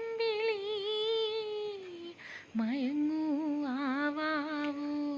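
A woman humming a tune in two long phrases with a slight vibrato, pausing for a breath about two seconds in.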